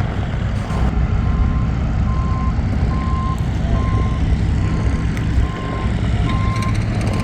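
Reversing alarm on a piece of heavy equipment beeping at an even pace, about one beep a second, over the steady low rumble of its diesel engine.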